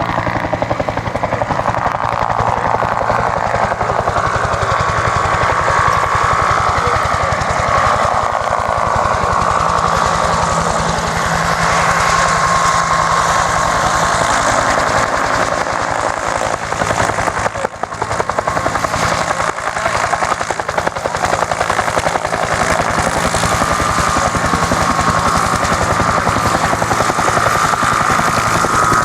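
Bell UH-1 Huey helicopter running close by: the rapid, steady beat of its main rotor blades with the whine of its turbine engine above it, easing off briefly about eighteen seconds in.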